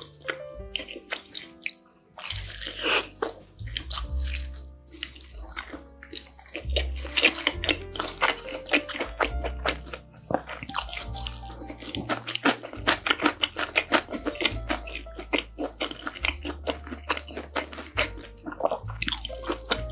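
Close-up wet chewing and lip-smacking of a mouthful of bacon Chicago-style pizza: a dense run of quick sticky mouth clicks. Soft background music with a low bass line plays underneath.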